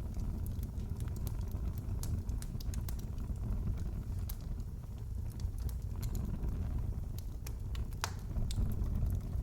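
Fireplace fire crackling: a steady low rumble of the burning fire with irregular sharp pops and snaps, one louder snap about eight seconds in.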